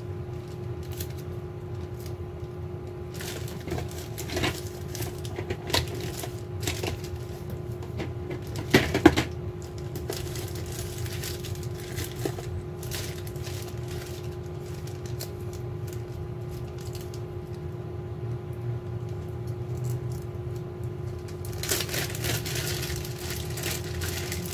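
Hands handling a 2.5-inch drive and an aluminium USB-C to SATA adapter enclosure: scattered small clicks and taps of hard parts, with a sharper cluster of knocks about nine seconds in, over a steady hum.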